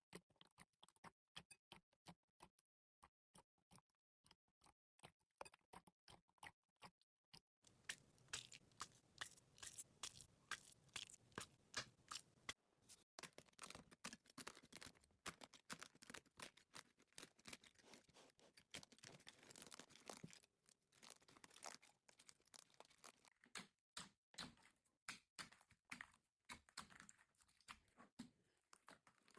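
Slime being handled, giving faint crackling and popping clicks. They come sparse and separate at first, then turn dense and almost continuous from about a quarter of the way in.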